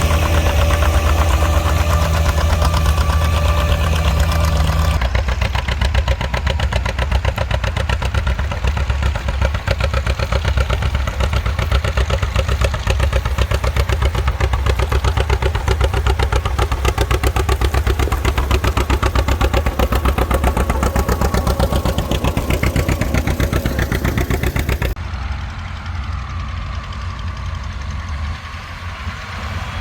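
Tractor engines running with a steady low firing beat. The sound changes abruptly about five seconds in, and again near 25 seconds, where it becomes somewhat quieter.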